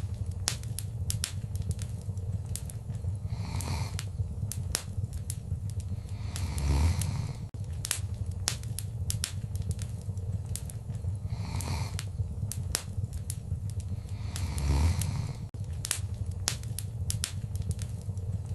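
Wood fire burning in a fireplace: many sharp crackles and pops over a steady low rumble of flame, with a soft hiss swelling every few seconds. Twice, about seven and fifteen seconds in, the flames surge with a louder low whoosh.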